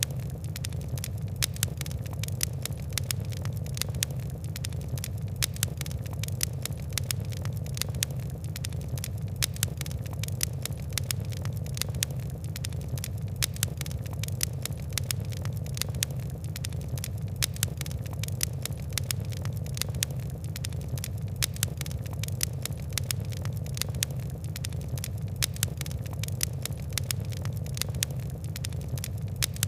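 Fire crackling steadily, with many quick, sharp pops and ticks over a constant low rumble.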